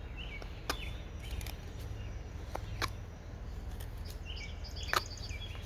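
Wild songbirds chirping in short phrases several times, over a steady low background rumble. A few sharp clicks, the loudest about five seconds in.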